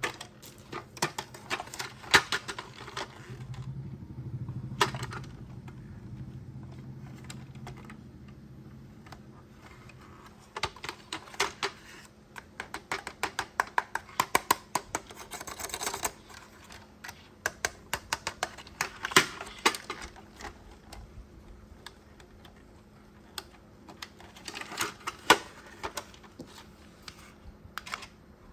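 Hard plastic toy parts clicking and rattling as they are handled, in irregular quick runs of clicks. A low steady hum sounds under the clicks for the first several seconds, then stops.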